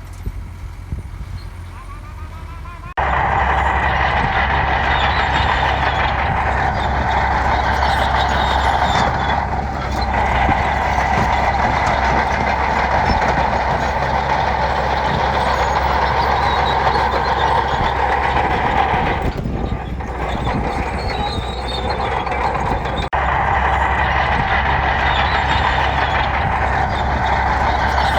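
Heavy diesel earthmoving machinery running under load: a steady deep engine hum with dense mechanical noise over it. It jumps abruptly louder about three seconds in and eases briefly twice.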